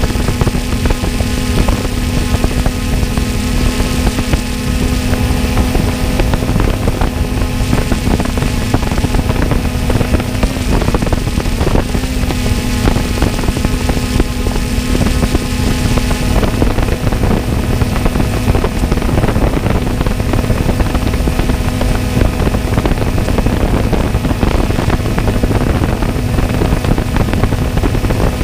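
Jet ski engine running at a steady speed, a constant hum over a steady rushing noise.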